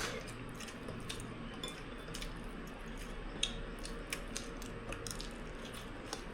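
Eating utensils tapping and scraping on bowls and plates during a meal, scattered soft clicks with one brighter clink about three and a half seconds in, over a steady low hum.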